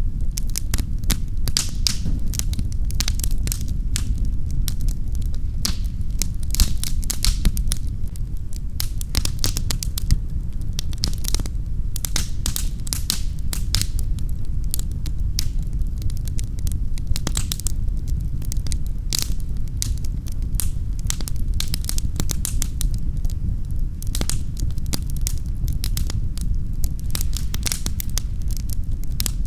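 Fireplace fire burning with a steady low rumble and dense, irregular crackles and pops.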